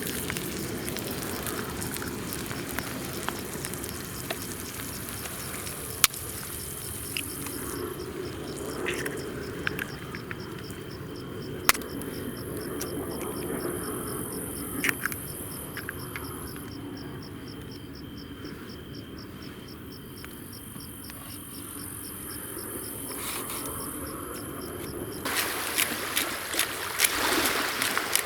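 Night outdoor ambience with an insect, likely a cricket, chirping in a fast, even high-pitched trill for most of the stretch, over a low steady hiss, with a few sharp clicks.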